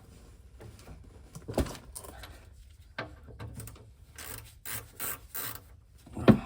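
Scraping, rubbing and knocking of hand tools and a plastic oil drain pan being handled under a truck, with two sharper knocks, one about a second and a half in and one near the end.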